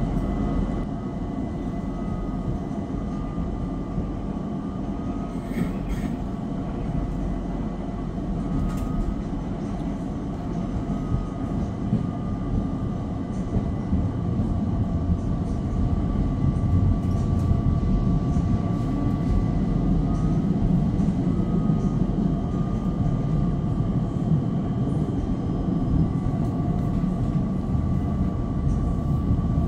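Class 378 Electrostar electric train running: a steady low rumble with a high whine held over it, getting louder about halfway through.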